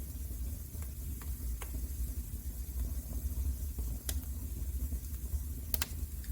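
Wood fire crackling in a fireplace: scattered sharp pops, the loudest near the end, over a steady low rumble and a faint hiss.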